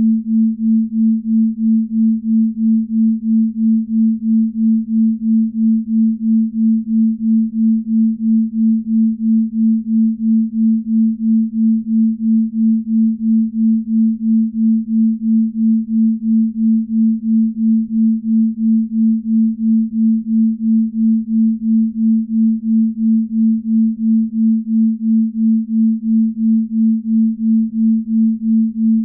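Binaural beat: a steady low pure tone that swells and fades evenly about twice a second, a slow beat of the kind used for deep-sleep listening.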